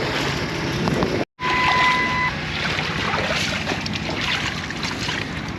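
Wind buffeting the microphone over sloshing water, with a short steady electronic beep about a second and a half in.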